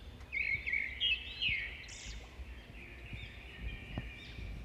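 A songbird singing a run of high, arching chirps, loudest in the first second and a half and then softer, with a few faint knocks of a silicone spatula stirring in a frying pan.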